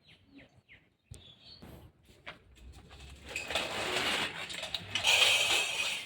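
A bird gives a few short, quick, falling chirps, then about three seconds in a louder even rushing noise swells up and dominates, its source unclear.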